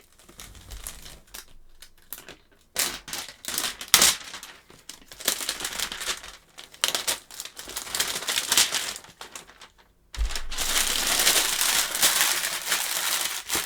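Plastic shrink wrap being torn and crumpled off a box: irregular crinkling and rustling, turning into a louder, continuous stretch of crinkling about ten seconds in.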